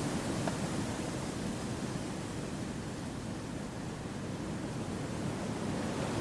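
Wind blowing through forest trees: a steady rushing, easing a little midway and picking up again near the end.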